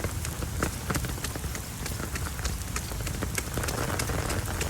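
Rain pattering in many irregular drops over a steady low rumble.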